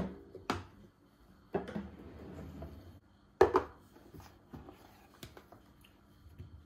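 Three separate light knocks, such as objects being handled and set down, with the last one the loudest.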